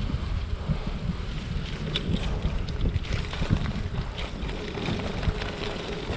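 Wind buffeting the microphone while riding a hybrid bicycle: a steady low rumble with many small clicks and rattles scattered through it.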